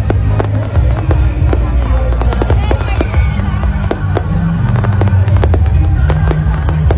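Fireworks going off: a rapid run of sharp cracks and bangs. Loud music with a heavy bass plays underneath.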